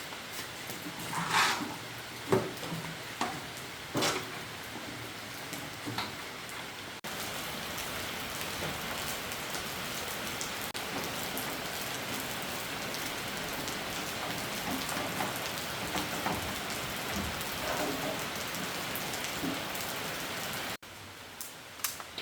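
Heavy rain falling steadily in an even hiss. In the first few seconds, before the rain grows dense, there are a few sharp knocks.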